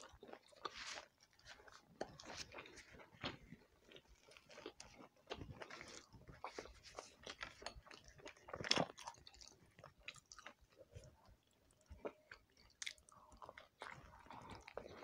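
Quiet, close-up mouth sounds of a man eating roti with cauliflower-and-potato curry by hand: wet chewing with irregular smacks and clicks, and his fingers tearing the soft flatbread. One louder smack comes a little past the middle.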